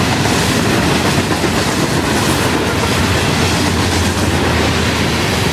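Freight train's grain cars rolling past, a loud, steady noise of steel wheels on rail with many fine clicks.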